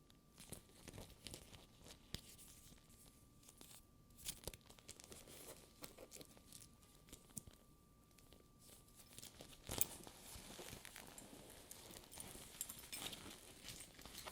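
Fingers handling a sticky faux leather purse, the tacky leather crackling softly as it peels from the skin, with scattered small clicks. A sharper click comes about two-thirds of the way through, followed by denser rustling.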